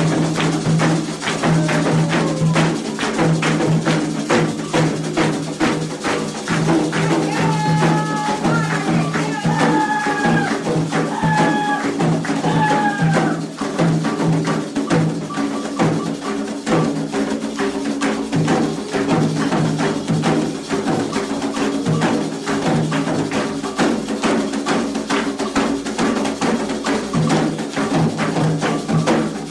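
Candomblé ritual drumming: hand drums (atabaques) beaten in a fast, steady rhythm with a repeating bell-like clack, the music of the rum dance for the orixás. A few short falling high notes sound about a third of the way in.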